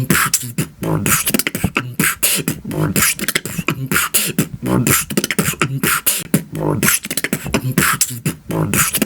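Beatboxing: a steady, fast rhythm of vocal drum sounds with a low bass line under it.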